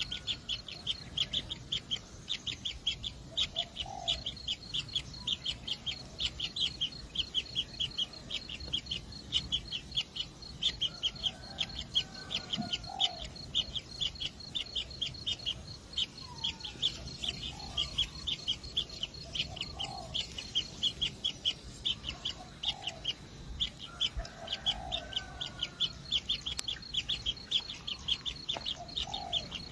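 Kingfisher nestlings calling in the nest burrow: a fast, unbroken run of short, high chirps, several a second, with lower short rising calls every couple of seconds.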